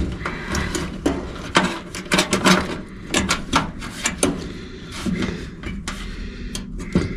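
Irregular clicks, taps and scrapes of hands working wire terminals onto a new sequencer inside a sheet-metal electric furnace cabinet, with a low hum underneath.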